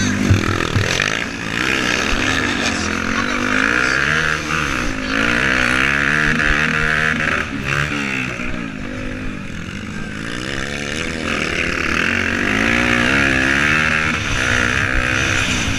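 Motocross motorcycle engines racing, their pitch rising and falling again and again as the riders open and close the throttle and shift gears.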